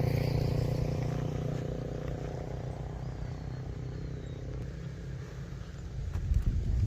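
Homemade V4 engine, built from two scrap-yard engines, running at a steady speed, its even hum slowly fading over the first few seconds; a rougher low noise rises near the end.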